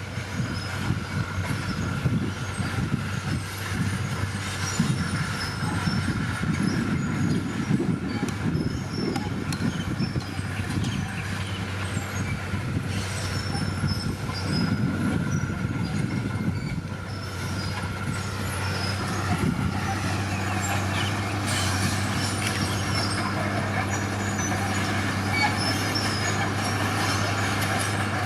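Heavy diesel earthmoving machinery at work: a steady engine with irregular clanking and squealing through the first half, settling into steadier running about two-thirds of the way in.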